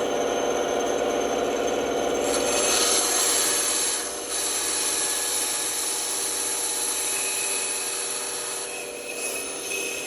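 Band saw running with its blade cutting through wood: a steady hum under rasping cutting noise that grows brighter a couple of seconds in and briefly eases twice.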